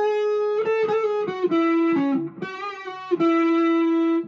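PRS SE McCarty 594 electric guitar, on its neck humbucker in full humbucker mode, played through a VOX AC10 amp. It plays a melodic line of single notes: a held note, a quicker run of notes, then a long sustained note that is cut off sharply at the end.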